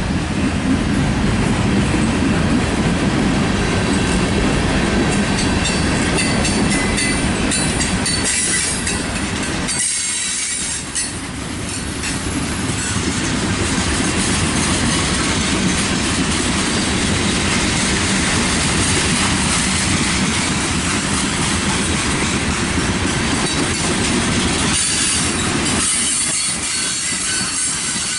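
Freight cars of a mixed manifest train rolling past close by: a steady clatter of steel wheels on the rails, with high-pitched wheel squeal coming in now and then.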